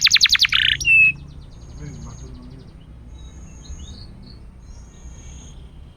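Domestic canary singing: a loud, very fast trill of rapidly repeated notes that ends in a short held note about a second in. After that only faint high thin notes recur every second or so over a low background hum.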